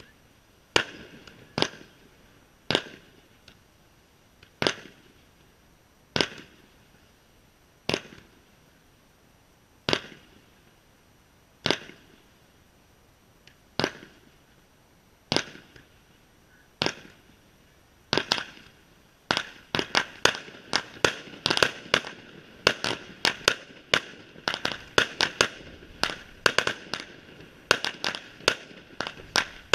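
Fireworks display: single shots burst with sharp bangs about every two seconds, then the firing quickens into a rapid volley of many bangs and crackles.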